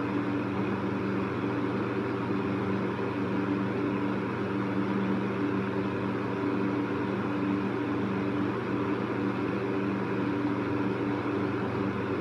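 Electric fan running steadily: an even rush of air with a steady low motor hum.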